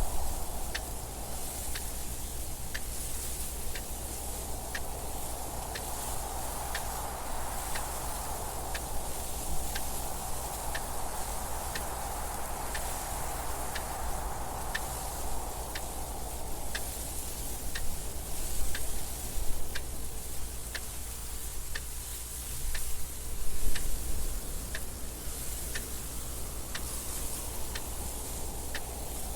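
Clock ticking steadily, a little faster than one tick a second, over a soft wind that swells and eases.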